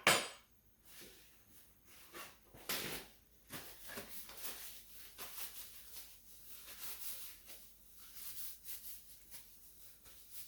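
Kitchen handling sounds: a sharp knock at the start, then a run of irregular scraping and rustling.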